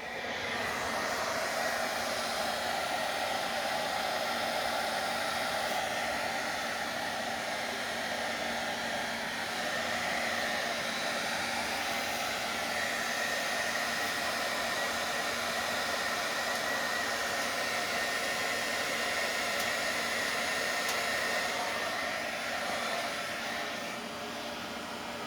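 A small blower motor running steadily with a rush of air and a faint hum, easing slightly near the end.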